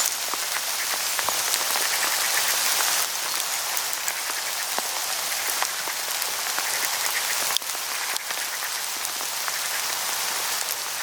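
Hail falling on autumn leaves in a forest: a dense, steady hiss made of countless small ticks and taps.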